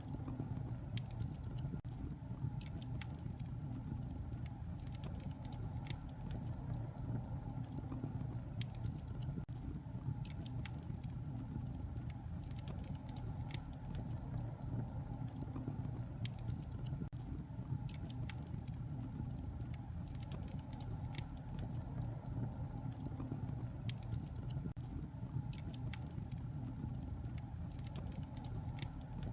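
Wood fire crackling in a fireplace: irregular small pops and crackles, several a second, over a steady low rumble of the flames.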